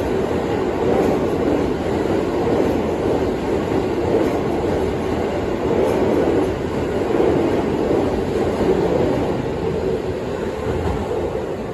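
Keisei 3000-series electric commuter train running through the station past the platform, a steady loud noise of wheels on rails that eases slightly near the end as the last car goes by.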